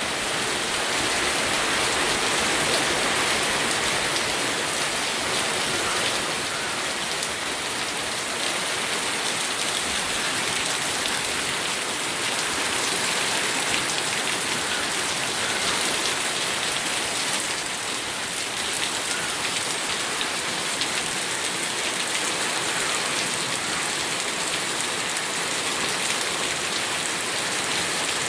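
Steady rain falling, a dense hiss of many drops striking a surface.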